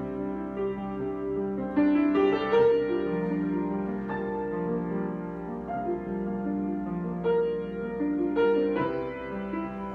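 Solo piano improvisation: slow, held chords ringing on, with fresh notes struck about two seconds in and twice more near the end.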